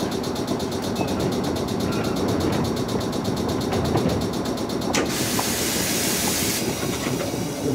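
Gakunan Railway electric train standing at the platform, its equipment running with a steady low hum, with a fast, even high ringing over it until about five seconds in. Then a click and a burst of compressed-air hiss lasting about a second and a half, as the train's air system works just before it pulls away.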